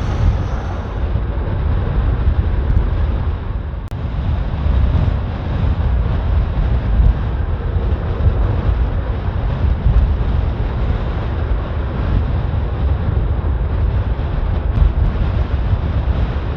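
Strong gusty wind buffeting the microphone: a loud, uneven low rumble that rises and falls with the gusts.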